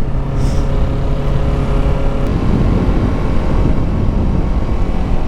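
Kawasaki Ninja 650's parallel-twin engine running while ridden, with a steady low rumble; its note shifts about two seconds in.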